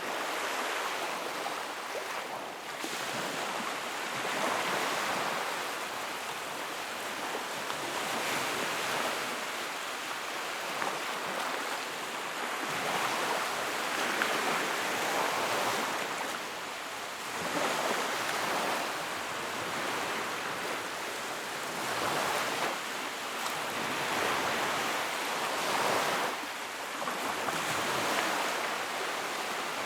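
Wood fire crackling in a fireplace: a steady rushing with faint crackles, swelling and easing every few seconds.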